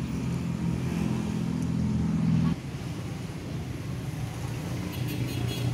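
Steady low motor hum, engine-like, which drops in level and changes pitch about two and a half seconds in and then runs on more quietly; a few light clicks near the end.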